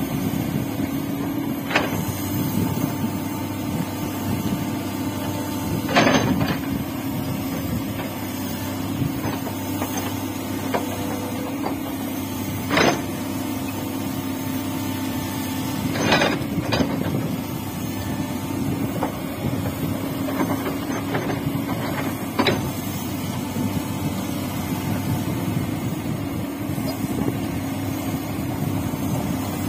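Excavator's diesel engine running steadily under work, with a handful of sharp metallic clanks every few seconds as the machine digs.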